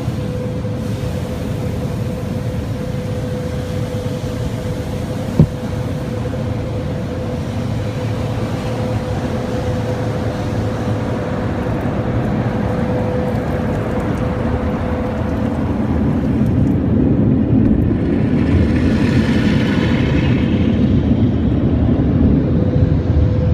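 Automatic drive-thru car wash machinery running: a steady rush of spray and mechanical noise with a constant hum. There is one sharp click about five seconds in, and the noise grows louder in the last third.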